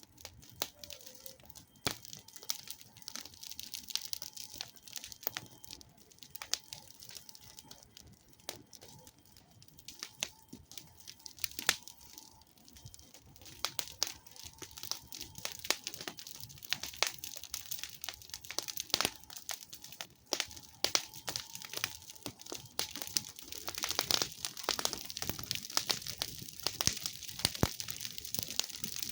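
Campfire of wood burning on grass, crackling with irregular sharp pops and snaps over a steady hiss; the crackling grows denser and louder in the second half.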